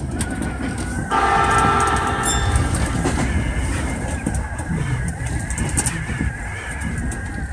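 Commuter train on the Tokyu Toyoko Line running along the track, heard from the driver's cab: wheel and rail rumble with a steady whine. About a second in, a horn-like tone starts suddenly and fades out over about two seconds.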